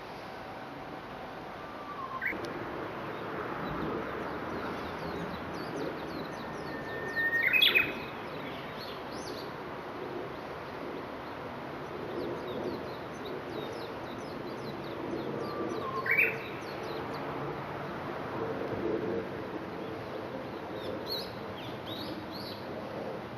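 Japanese bush warbler (uguisu) singing its 'hoo-hokekyo' song three times, each a held whistle that jumps to a quick higher flourish. The second song is the loudest. Fainter chirps of other birds are heard near the end, over a steady low background hum.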